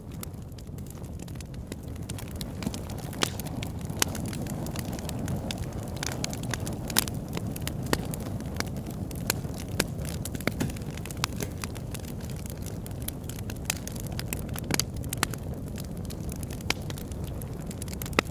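Log fire burning in an oil-drum fire pit, crackling with irregular sharp pops over a steady low rumble.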